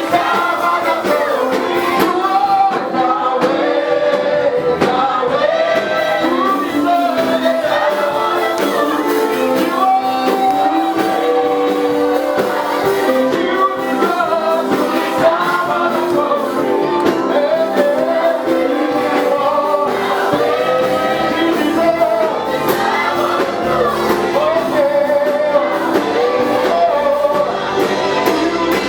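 Gospel praise music: voices singing together over a band, with a steady beat.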